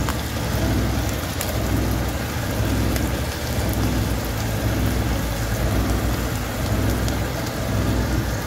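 Mushrooms, minced beef, pineapple and corn sizzling in hot oil in a non-stick wok: a steady crackling hiss, with a steady low hum underneath.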